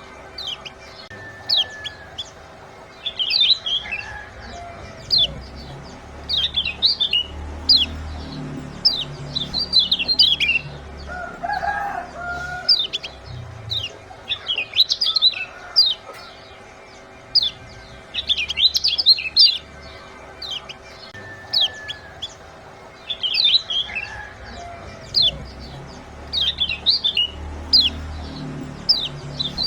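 Kecial kuning (lemon-bellied white-eyes) giving quick bursts of sharp, high 'ciak' chirps, a cluster every second or two, over a faint steady hum.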